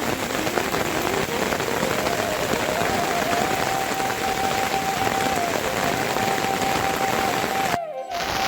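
Steady rain falling on surfaces, an even hiss. A faint thin tone rises slowly in pitch over the first three seconds or so and then holds. Everything cuts out briefly near the end.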